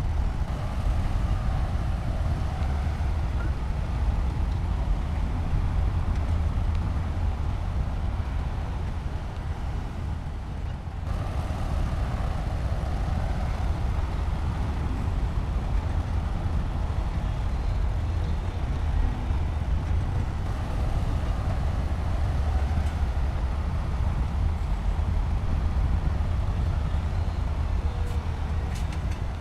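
Heavy diesel engine of construction machinery running steadily with a deep rumble, easing slightly for a moment about ten seconds in before running fuller again.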